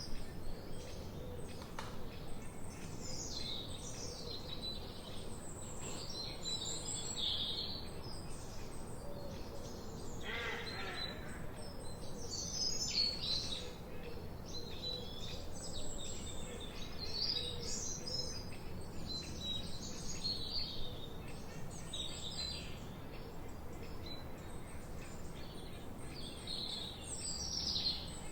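Several songbirds chirping and singing at once, many short high calls overlapping throughout, with one lower descending call about ten seconds in, over a steady background hiss.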